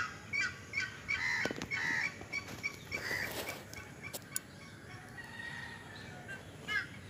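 Birds calling: short chirping calls repeated about three times a second, thinning out after about four seconds.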